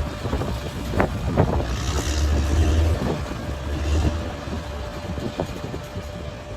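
Large bulldozer's diesel engine running with a deep, steady rumble and a thin constant whine. A few sharp knocks come in the first second and a half.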